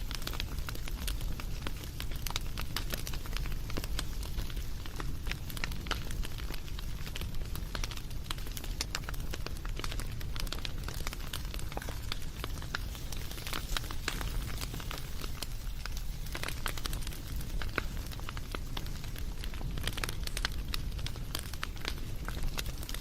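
Wood fire crackling, with irregular pops and snaps over a steady low rumble.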